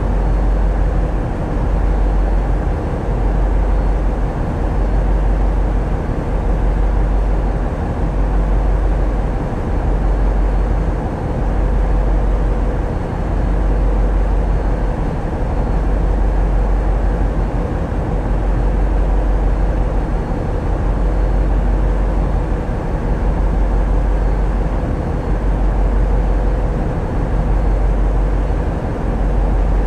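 Tugboat's diesel engines running steadily, heard on board, with a heavy low rumble that swells and eases every couple of seconds.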